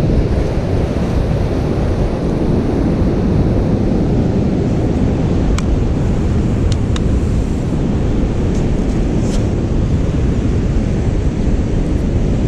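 Stiff wind buffeting the microphone in a steady low rumble, with surf behind it. A few faint clicks come in the middle.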